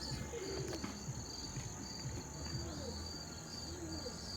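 Crickets chirping in a steady, evenly spaced rhythm, one short high chirp about every half second or so.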